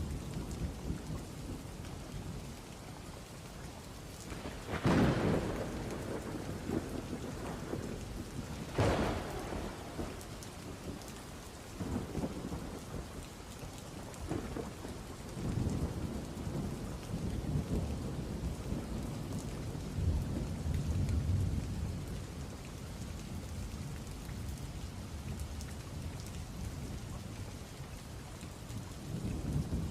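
Wood fire crackling steadily in a fireplace, with a low rumble of flames and two louder surges of crackle about five and nine seconds in.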